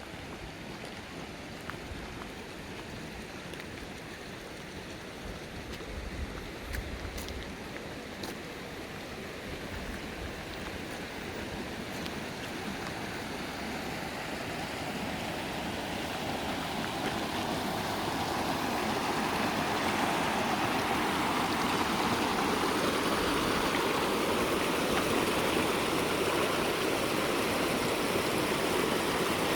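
Mountain stream flowing over rocks, a steady rush of water that grows louder over the first twenty seconds or so and then holds even.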